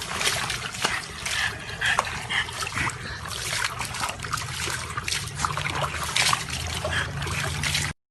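Water splashing and trickling, with many irregular splashes and clicks; it cuts off suddenly near the end.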